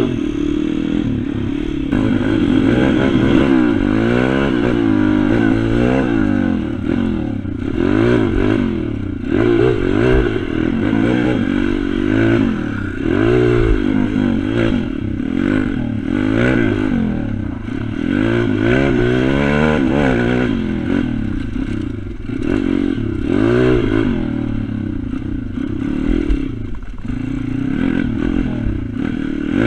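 Pit bike engine running hard around a track, its pitch rising and falling every second or two as it accelerates, shifts and backs off.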